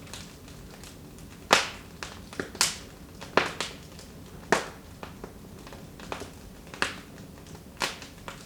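Wood fire in a fireplace crackling: irregular sharp pops and snaps, a few much louder than the rest, over a faint steady hiss.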